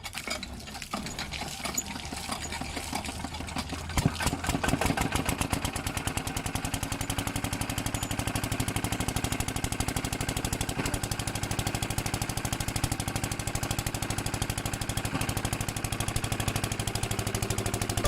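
An engine running with a rapid, even beat; it picks up sharply about four seconds in and then runs steadily.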